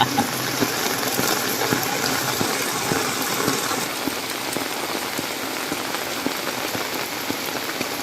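Steady rain falling, an even hiss with many small drop ticks close by.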